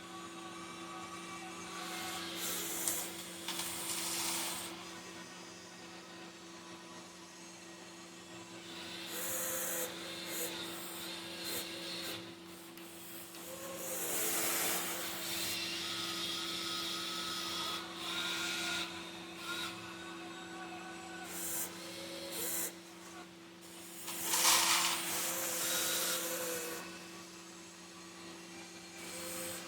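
A 1:14 scale RC excavator working: a steady electric motor hum with short whines that shift in pitch as it moves, and several bursts of small rocks scraping and pouring as it digs and loads a 1:14 RC dump truck.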